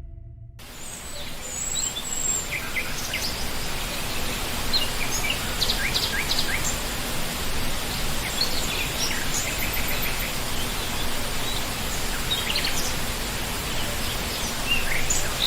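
Steady rush of a waterfall with many small birds chirping and trilling over it.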